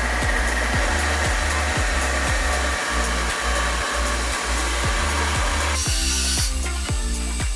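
A handheld power tool running steadily against wood, a continuous whir that stops about six seconds in. Background music with a steady beat plays throughout.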